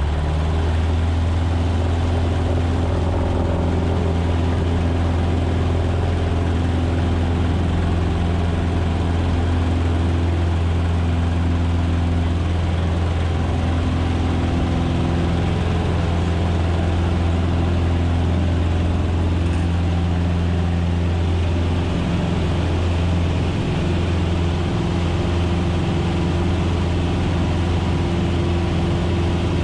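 Cessna 150's four-cylinder Continental O-200 engine and propeller running at a steady power setting, a loud, unchanging drone with a deep hum beneath it.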